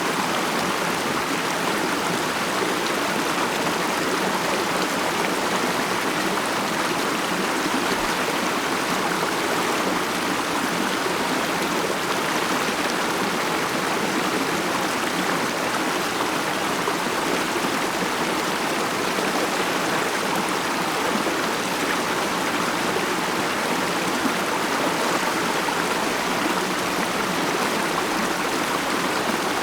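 A mountain stream running over rocks: a steady, even rush and murmur of flowing water.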